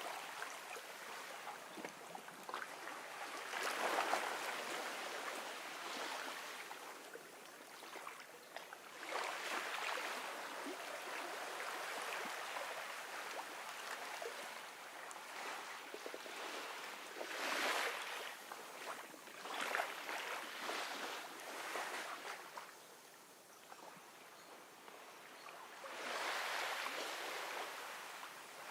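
Gentle ocean waves washing onto a beach, each wash swelling and fading every few seconds, with a quieter lull a little past the middle.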